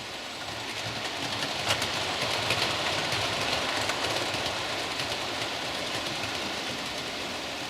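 Model train running on layout track: a steady rolling hiss with occasional sharp clicks, a little louder a couple of seconds in.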